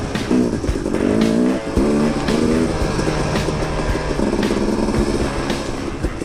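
KTM 250 XC-W two-stroke dirt bike engine revving up and down in short bursts of throttle, with scattered knocks from the bike over rough ground.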